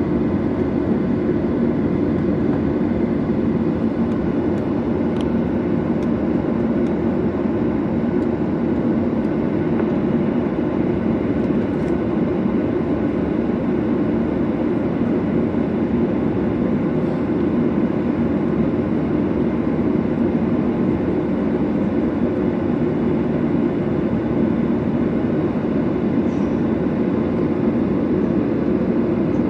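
Steady cabin noise of a Boeing 737-800 under takeoff or climb thrust: its CFM56-7B turbofans running and air rushing past the fuselage, heard from inside the passenger cabin as an even, unchanging noise.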